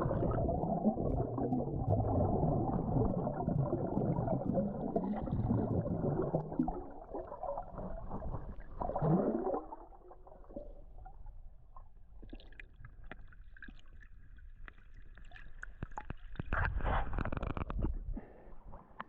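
Muffled underwater gurgling and rushing of water heard through a submerged GoPro as a swimmer dives in. It drops to a quieter underwater hush about halfway through, then water rushes and splashes loudly again near the end as the swimmer surfaces.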